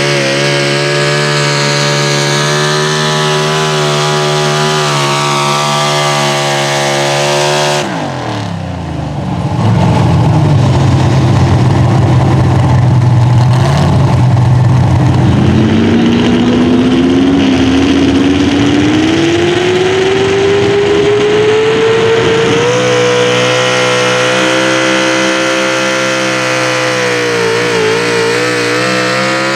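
Unmuffled engine of a pro stock four-wheel-drive pulling truck running at high revs. About eight seconds in its pitch drops sharply, then climbs steadily for several seconds and holds high.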